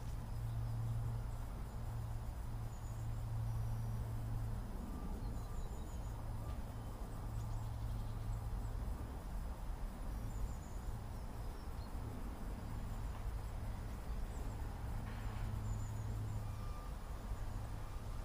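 Outdoor background at a lakeside: a steady low hum with faint, short high chirps of small birds scattered through it.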